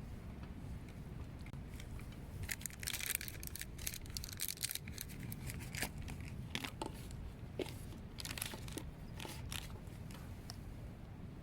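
Packaging being crinkled and torn open: a run of sharp crackles and rustles that starts a couple of seconds in and dies down near the end, over a steady low rumble.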